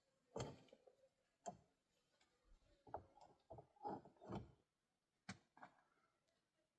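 Faint, irregular knocks and taps, about eight short hits spread unevenly, a few close together in the middle.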